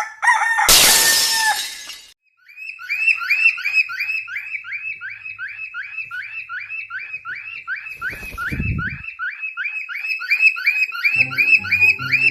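A bird calling a short chirp over and over in a fast, even run, about four or five a second, after a loud hissing burst near the start. Music comes in near the end.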